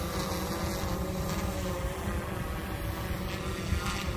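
SwellPro SplashDrone 4 quadcopter's propellers humming steadily as it climbs, the pitch wavering slightly, over low wind noise on the microphone.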